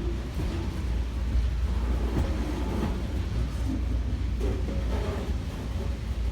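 Diesel-hauled engineers' freight train running past, a steady low rumble with a few clanks from the wagons.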